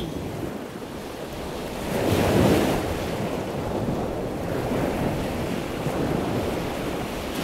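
Ocean surf: a steady rush of waves that swells louder about two seconds in and again near the end.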